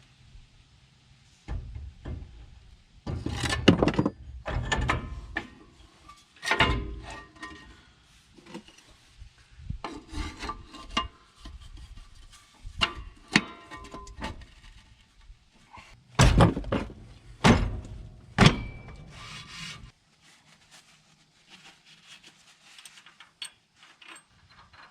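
Metal truck parts being handled during rear axle reassembly: irregular scraping, rubbing and knocking, with the loudest clunks in two clusters, a few seconds in and again around two-thirds through, then only light handling near the end.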